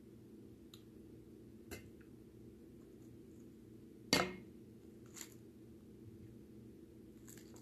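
A few light clicks and one much louder sharp knock about four seconds in, over a steady low hum.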